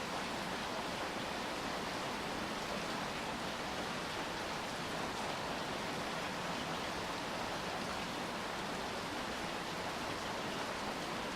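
Steady rain falling in a city, an even hiss with no separate drops standing out.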